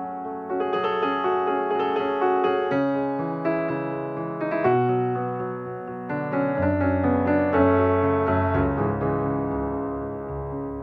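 Background piano music, notes and chords changing about every second or so.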